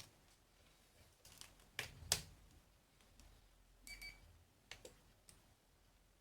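Light clicks and taps of test probes and parts being handled at a bench, the sharpest about two seconds in, with one short high beep about four seconds in from a multimeter checking a diode.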